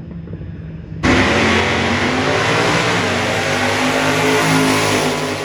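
Racing car engines running loud at speed, the sound cutting in abruptly about a second in, with the engine pitch wavering up and down.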